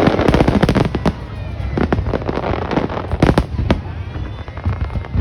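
Fireworks going off: a dense run of rapid crackling bangs in the first second or so, then scattered sharp bangs and pops.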